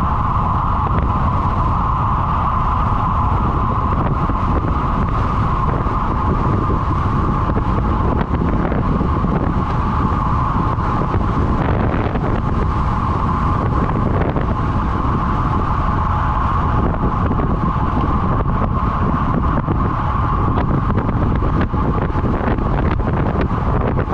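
Heavy wind rushing over the microphone of a camera on a road bike riding at race speed, with a steady mid-pitched hum running underneath.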